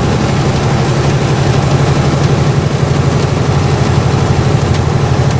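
Mack truck's diesel engine running steadily with a fast, even throb, heard from inside the cab.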